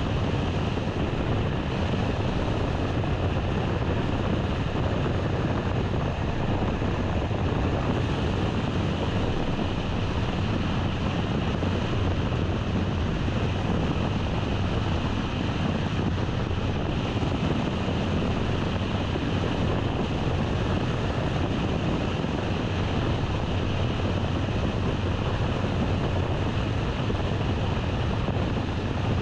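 A car driving at a steady pace: continuous road, engine and wind noise with a deep low rumble, unchanging throughout.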